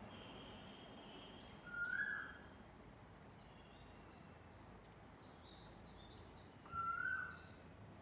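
A bird's short whistled call, given twice about five seconds apart, with fainter high chirping notes between the calls over a steady background hiss.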